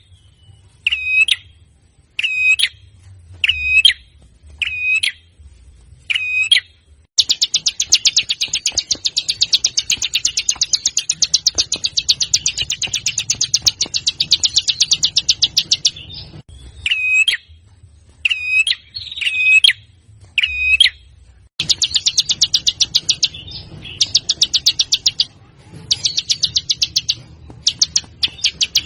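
Recorded songbird song: a sharp, high call repeated about every second and a half, then a long fast rattling trill lasting about eight seconds. More single calls follow, then a run of shorter fast trills near the end.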